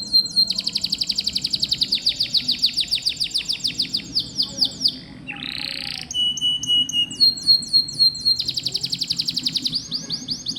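Domestic canary singing long, fast trilled rolls of rapidly repeated notes. About halfway there is a short buzzy phrase and a brief steady whistled note, then the trills resume.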